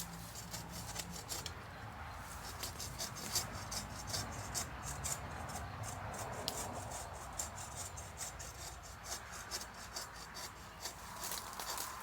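A saw cutting wood: a steady rasping, rubbing scrape with many irregular small clicks.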